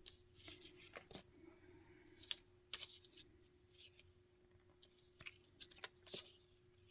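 Faint rustling and light, irregular clicks of hands handling a paper tag while tying off waxed thread, with a faint steady hum behind.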